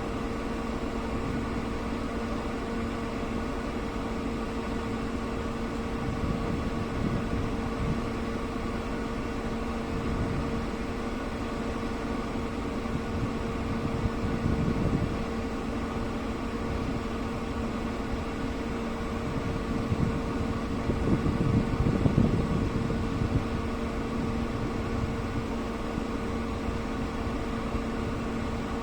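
Steady mechanical hum holding one pitch, with louder low rumbling swells about midway and again a little past two-thirds through.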